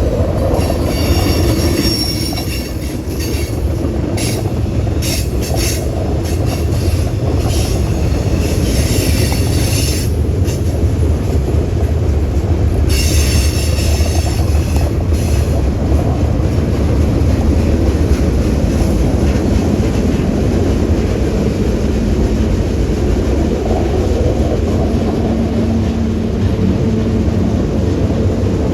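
Freight train rolling past with a steady low rumble. Its wheels squeal off and on through the first half, then the rumble runs on alone.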